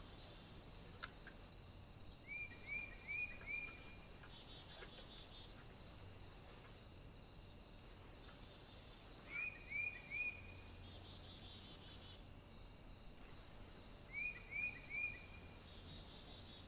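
A small bird calling at a bird feeder: three short phrases of three or four quick, bright notes each, spaced several seconds apart, over a steady faint high hiss.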